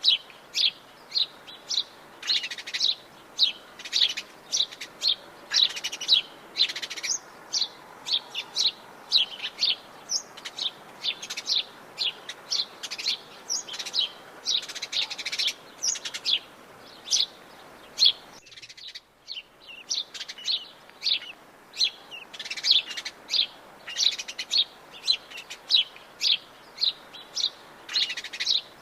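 A chorus of Atlantic Forest birds chirping and calling, with rapid, short high notes following one another thickly over a steady background hiss. Around two-thirds of the way through, the background cuts out abruptly for a moment before the chirping carries on.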